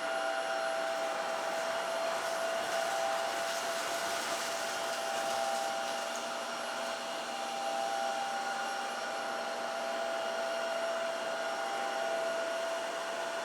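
Dreame H11 Max cordless wet-dry floor cleaner running steadily: a suction motor hiss with a constant high whine, as it picks up dry debris of rice, crackers and cornflakes.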